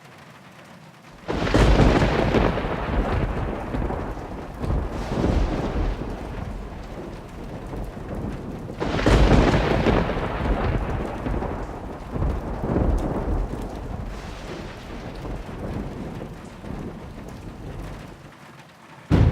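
Thunder during a storm: a loud clap about a second in rolls into a long rumble with several further surges, then a second big peal about nine seconds in rumbles away, with rain in the background.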